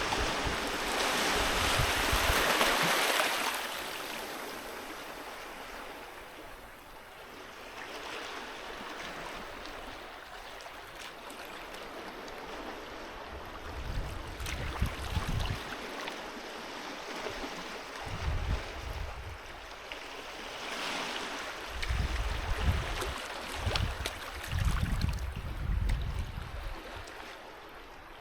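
Sea waves washing onto a beach. A large wave rushes in and breaks near the start, then fades to a softer wash, and a second, smaller wave comes in about two-thirds of the way through. Short low rumbles come and go in the second half.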